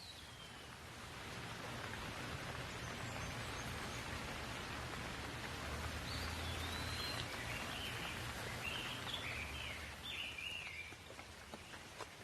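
Steady rain falling, swelling after about a second and easing near the end, with a few drops ticking. Birds chirp over it through the middle.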